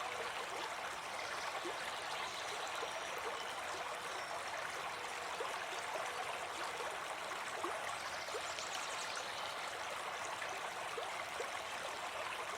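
A brook babbling steadily, with many small bubbling plinks over the flowing water.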